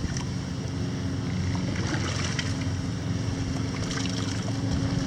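A small engine running steadily, with a few faint clicks or scrapes about two and four seconds in.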